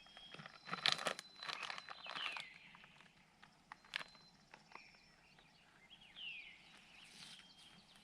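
Crunching and rustling, loudest in the first two and a half seconds, with a bird calling two short falling whistled notes over a faint high steady background.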